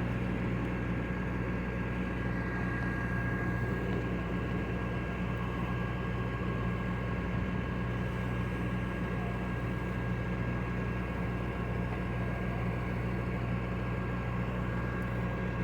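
An engine idling steadily: a low, even drone with a thin constant whine above it that does not change.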